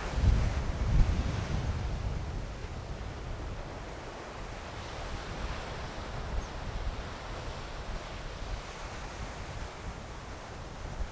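Ocean surf washing ashore, with gusts of wind buffeting the microphone, strongest in the first two seconds and easing after.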